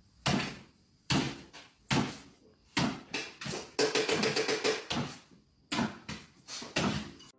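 A series of sharp knocks or impacts, each dying away quickly, coming about once a second, with a rapid flurry of them about four seconds in.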